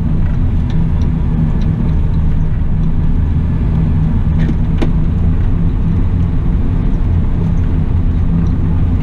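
Cat 972M XE wheel loader's diesel engine running steadily, with a single sharp click about five seconds in.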